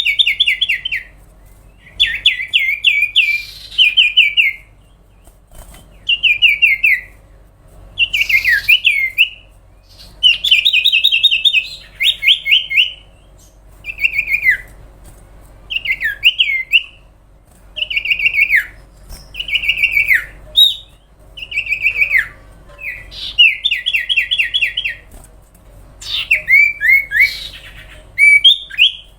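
Common iora (cipow/sirtu) singing: phrases of quick trilled notes sliding downward, each about a second long, repeated roughly every two seconds.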